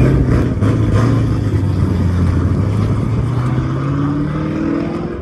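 A sports car's engine running loud, holding a steady note and then climbing in pitch through the last couple of seconds as it accelerates.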